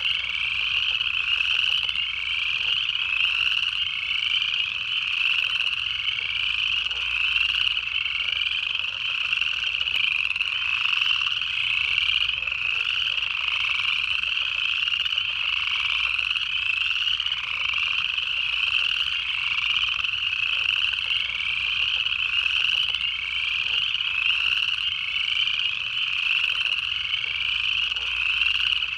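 A dense chorus of upland chorus frogs, many overlapping ascending trills repeating without pause.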